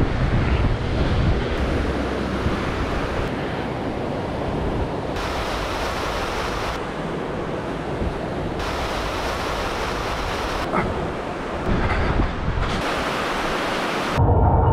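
Wind buffeting the microphone over the wash of surf on a beach, changing abruptly every second or two. Near the end a louder low rumble with a steady hum cuts in.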